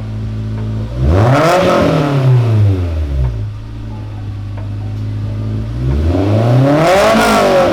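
Honda S2000 AP1's 2.0-litre four-cylinder engine, just fitted with an Invidia N1 cat-back exhaust, idling and then revved twice. Each blip of the throttle rises and falls over about two seconds, with the engine settling back to idle in between.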